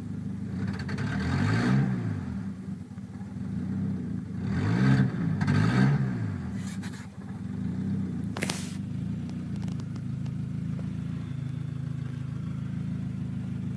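Engine running steadily and revved briefly three times, pitch rising and falling with each blip, with one sharp click about two-thirds of the way through. The engine has an idle problem that the owner traced to a failed ECM.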